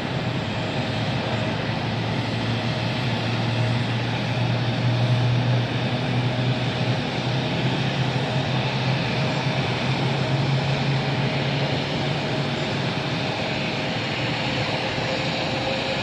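Airliner engines running steadily, a continuous rush with a low hum that swells in the middle and a faint steady whine above it.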